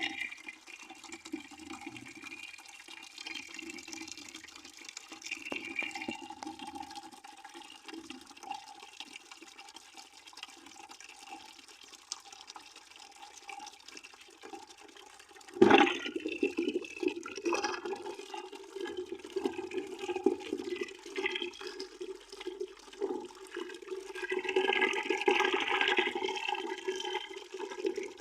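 A stream of water pouring into a bucket as it fills: steady splashing with a steady tone under it. About halfway through the splashing suddenly grows louder and stays louder.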